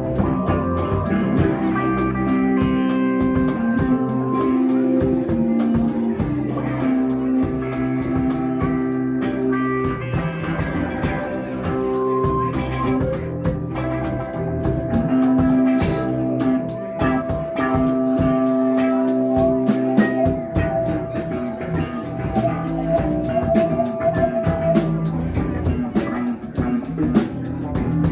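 Live rock band playing: electric guitar, bass and drum kit over a steady beat, with a long held note from about halfway through.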